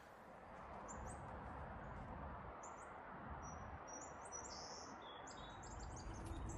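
Faint outdoor ambience: small birds chirping in short high calls over a steady low hiss, the calls coming more often in the second half.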